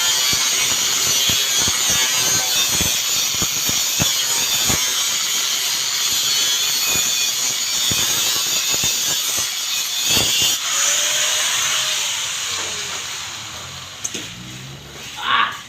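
A cutting tool working through material: a steady hiss with scattered clicks that dies away over the last few seconds as the cut stops.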